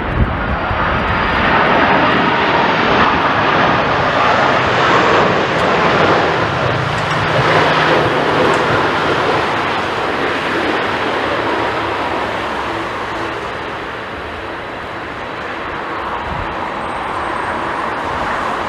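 Jet airliner engines running loud and close, a dense rush of noise with a faint steady whine; the sound eases a little past the middle and swells again near the end.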